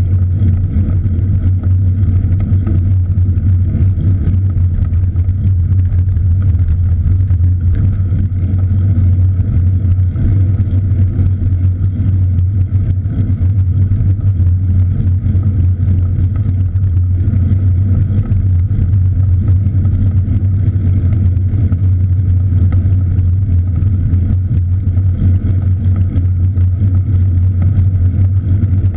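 Steady, loud low rumble of wind and road noise on a camera riding along on a cross bike, unbroken throughout.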